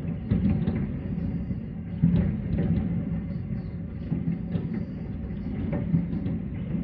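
Aerial fireworks bursting in quick succession: a continuous low rumble of booms with sharper bangs, the strongest about two seconds in and near the end.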